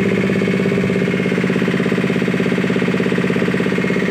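Piaggio Ape auto-rickshaw engine running steadily at idle with an even, rapid pulsing beat, during an engine carbon-cleaning service.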